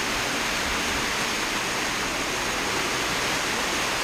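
Heavy thunderstorm downpour: a steady, loud rush of rain.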